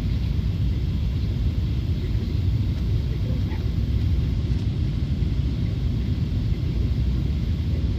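Boeing 777 engine and airframe noise heard as a steady low rumble from inside the cabin.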